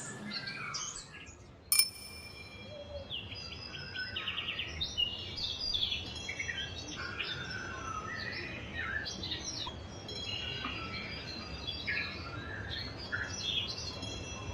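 Several songbirds chirping and trilling. About two seconds in, a bell is struck once and its high ringing tones fade slowly under the birdsong.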